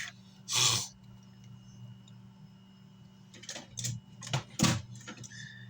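Hand work desoldering a component from an amplifier circuit board: a short hissy burst about half a second in, then a run of sharp clicks and brief scraping bursts near the end, over a steady low electrical hum.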